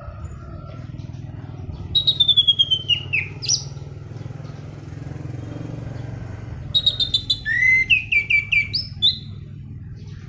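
Anis Cendana thrush singing in two bursts of quick, clear whistled notes. The first phrase slides downward in pitch and the second is a run of short rising notes, over a steady low hum.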